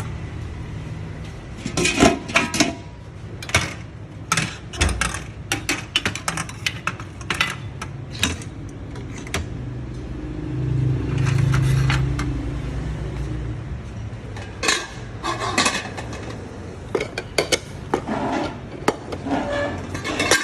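Kitchen clatter: dishes, pots and utensils knocking and clinking at irregular intervals. A low rumble swells and fades about halfway through.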